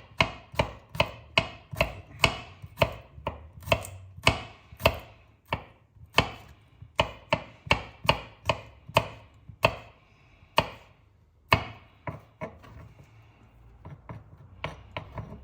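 Knife chopping garlic cloves on a cutting board, sharp strokes at a steady pace of about two a second, giving way after about twelve seconds to fainter, scattered taps.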